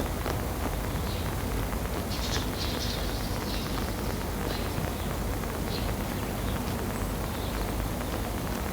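Sparrow chirping in short, scattered calls, several close together about two to three seconds in, over a steady low background rumble.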